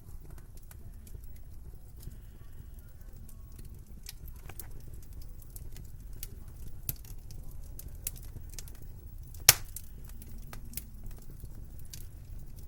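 Wood fire crackling in a fireplace, with scattered small pops and one sharp loud pop about nine and a half seconds in, over a steady low rumble.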